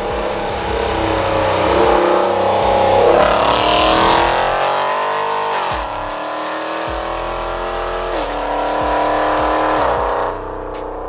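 Cammed 2016 Dodge Challenger R/T's 5.7 L Hemi V8 with long-tube headers accelerating hard at wide-open throttle. The pitch climbs, then drops sharply at two upshifts about six and eight seconds in, climbing again after each.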